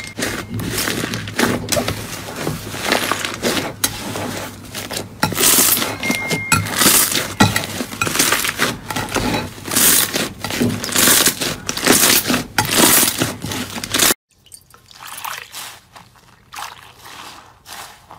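Slime being pressed, stretched and squished by hand, giving dense sticky crackling and wet popping clicks. About fourteen seconds in it cuts abruptly to a quieter passage of softer crackles.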